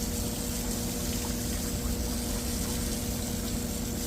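Goodman outdoor condenser fan motor running, a steady hum with two even tones over rushing airflow. It draws about 1.4 amps against its 2.4-amp rating.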